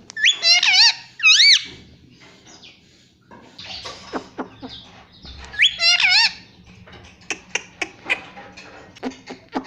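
Ring-necked parrot giving high, wavering squawking calls in two short bouts, with scattered sharp clicks and taps in between.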